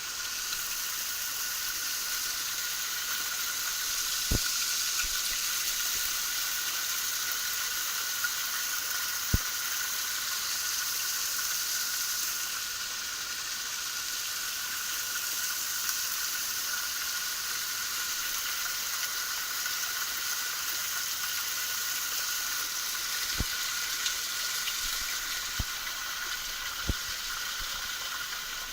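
Steady rushing hiss of a small mountain waterfall splashing down, with a few faint clicks scattered through it.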